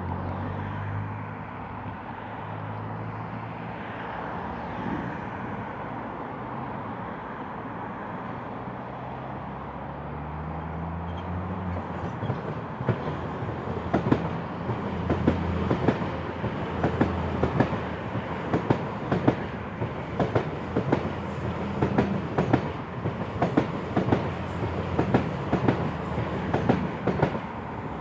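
Diesel train passing, its engine note climbing in pitch as it pulls away under power, then a steady run of clickety-clack as the wheels cross rail joints, getting louder in the second half.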